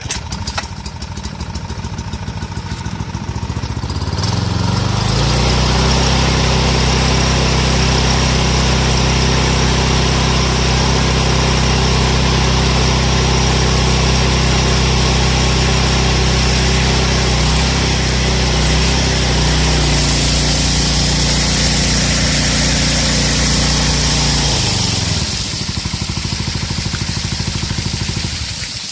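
Koshin SEM-50 engine-driven water pump starting up and running at low speed. It is throttled up about four seconds in to a steady higher speed. About twenty-five seconds in it drops back to a slow run.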